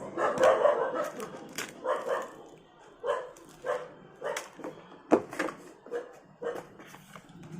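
A dog barking repeatedly, a string of short barks about every half second or so.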